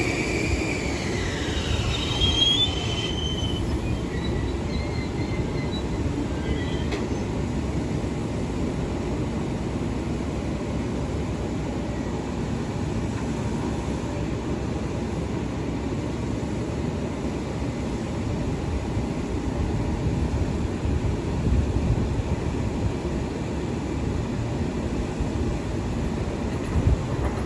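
Long Island Rail Road train running through the station, a steady rumble of wheels on rail. A whine falls in pitch over the first couple of seconds, with brief high wheel squeals a little after.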